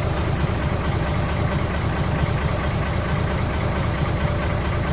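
Truck engine running steadily with a fast, even low throb.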